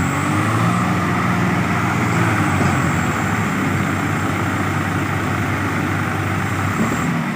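Swaraj tractor's diesel engine running steadily at a fairly loud, even level.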